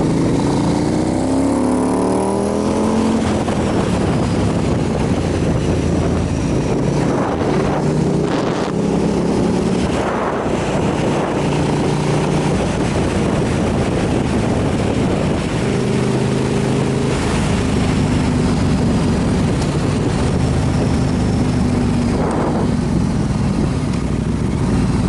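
Motorcycle engine running under way, its pitch climbing in the first few seconds and then dropping back, with wind rushing over the microphone.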